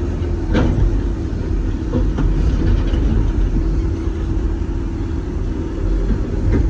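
Doosan DX420LCA excavator heard from inside the cab, its diesel engine and hydraulics running under load: a steady low rumble with a constant hum, broken by a few sharp knocks.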